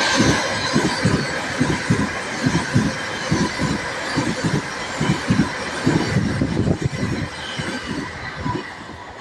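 Train passing along the track, its wheels clattering in a quick run of thumps over a steady rushing hiss, easing off toward the end.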